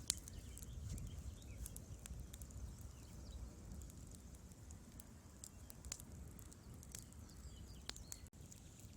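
Wood fire crackling: irregular sharp pops and snaps of burning logs, the loudest right at the start, over a low rumble of the flames.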